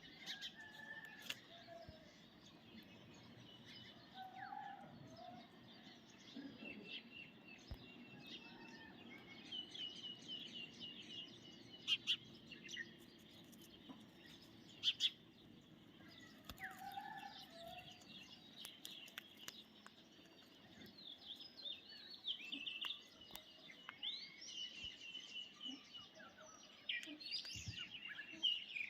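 Parrots chirping and chattering in short, high calls, busier near the end, with a few sharp clicks in between.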